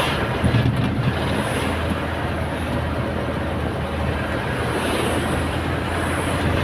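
Truck engine running steadily while driving on the road, a continuous low hum under a wide rushing road noise.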